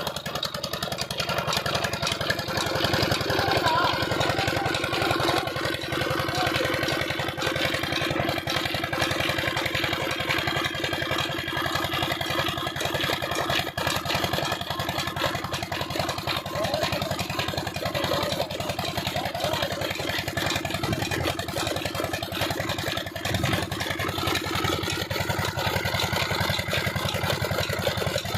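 Old Petter-type stationary diesel engine running steadily, with a fast, even firing rhythm, powering a chaff cutter.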